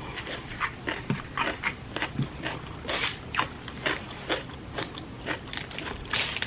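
A person biting and chewing food, with short crunchy chews about three a second.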